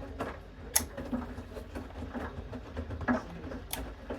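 Bosch Series 6 washing machine running its main wash, a steady low hum, with scattered sharp clicks and knocks of equipment being handled, the loudest about a second in and near the end.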